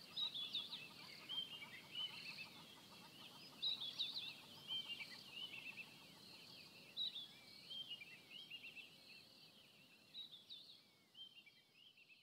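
Birds chirping faintly, many short high calls overlapping at an irregular pace over a soft outdoor background hiss, fading out near the end.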